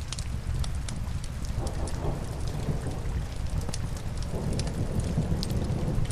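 Rain on window glass mixed with a crackling log fire: a steady low rumble and hiss under frequent sharp, irregular pops and snaps.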